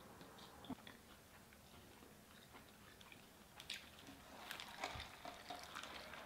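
Faint chewing and mouth sounds of someone eating, with a few soft clicks scattered through.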